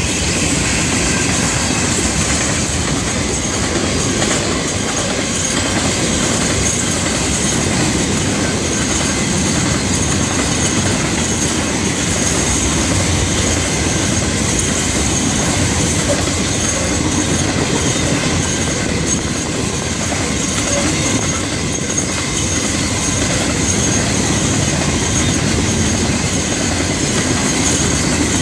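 Freight cars of a Florida East Coast Railway train, mostly loaded open hoppers, rolling past close by: a steady rumble and clatter of steel wheels on the rails, with a thin, steady high-pitched wheel squeal over it.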